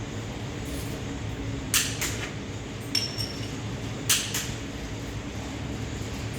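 Metal tools and engine parts clinking and tapping against each other, about five sharp strikes in a cluster, one ringing briefly at a high pitch, over a steady low hum.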